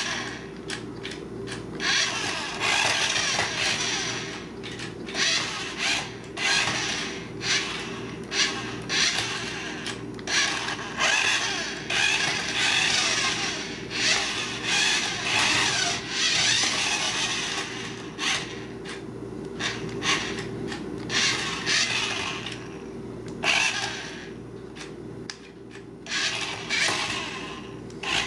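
Remote-control toy car's small electric motor and gearbox whirring in repeated short bursts, starting and stopping as it is driven back and forth.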